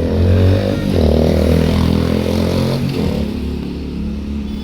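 Tractor engine running, its speed rising and falling between about one and three seconds in.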